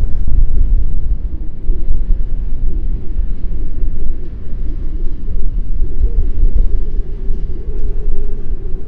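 Strong wind buffeting the microphone in a loud, uneven low rumble, with a faint steady tone coming in about five seconds in.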